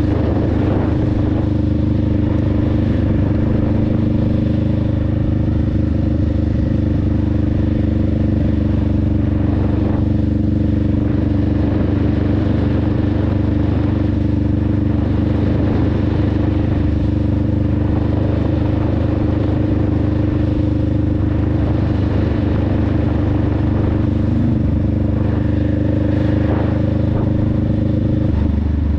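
2021 Honda Rebel 500's 471 cc parallel-twin engine and exhaust running while riding, holding steady revs, with a brief change in engine note near the end.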